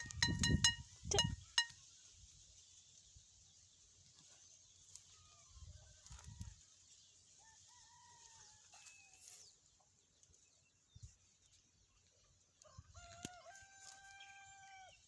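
Chickens: scattered short clucks, then a rooster's crow with a long held final note near the end. A few dull thumps with clicks near the start are the loudest sounds.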